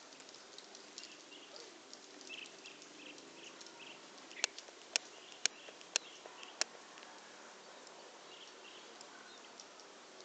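Flock of swallows twittering, short high chirps repeating over and over, faint. About halfway through, a run of five sharp clicks about half a second apart.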